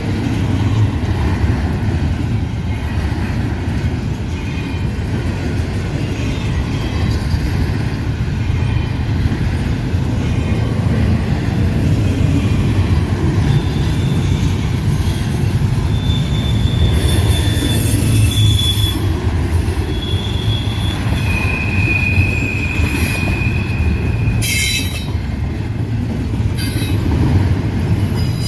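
Double-stack intermodal container train rolling past: a steady low rumble of steel wheels on rail. In the second half there are several brief high-pitched wheel squeals, and near the end a couple of sharp clanks.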